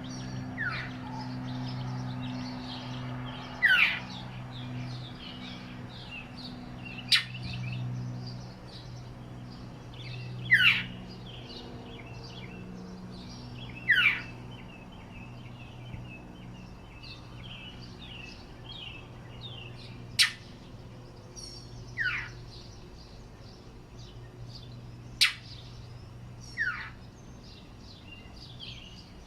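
Northern mockingbird giving sharp single calls, no song, about every two to four seconds, about ten in all, with fainter chirping of other birds and a steady low hum behind. These are the calls the uploader thinks he gives in defence of a nearby nest.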